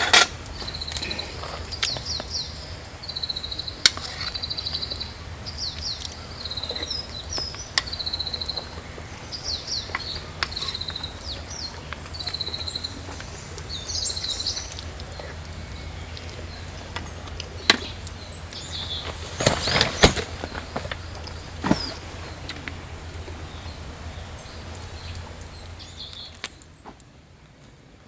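Small birds singing repeated chirping and trilling phrases, most in the first half, with scattered sharp clicks and knocks. A low steady rumble underneath stops near the end.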